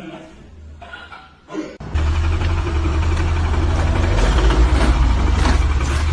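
Loud, steady engine rumble of heavy machinery, starting suddenly about two seconds in after a quieter stretch.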